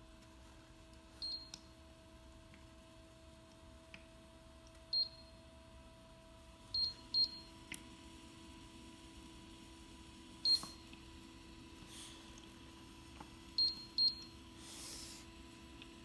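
Short, high electronic beeps, about seven of them, some in quick pairs, over a faint steady hum. These are the button-press beeps of a JBTOR cool mist humidifier's controls as its settings are changed.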